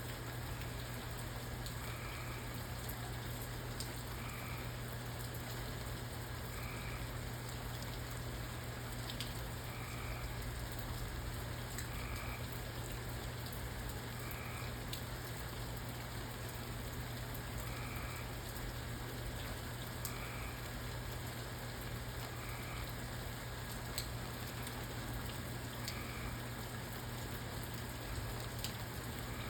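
Steady rain falling, with scattered drop ticks. A frog gives a short call about every two and a half seconds, and a steady low hum runs underneath.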